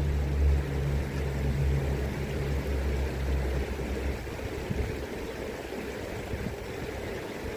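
River current flowing, an even rushing of water. A low rumble lies under it and fades out about four seconds in.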